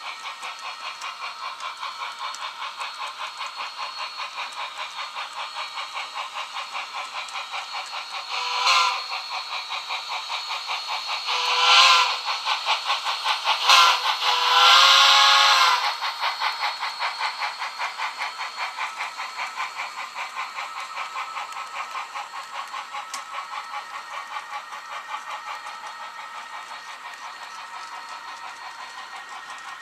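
HO-scale model diesel locomotive's onboard QSI sound decoder, for an AC4400, playing a steady running-engine sound with a regular pulse as the locomotive runs by. Its horn sounds four times near the middle, two long, one short and one long, the grade-crossing pattern.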